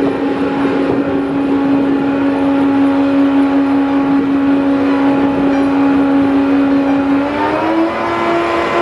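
A vehicle engine running steadily with a humming tone, rising in pitch about seven seconds in as it speeds up.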